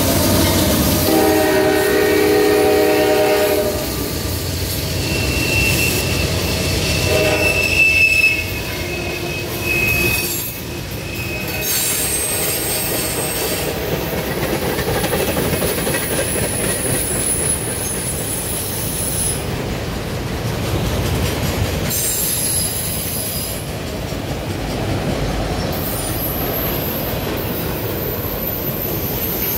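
CSX mixed freight train passing close by. The locomotive horn sounds a chord for about the first four seconds. Then tank cars and autoracks roll past with a steady rumble and clatter, and high wheel squeals from the curve come and go several times.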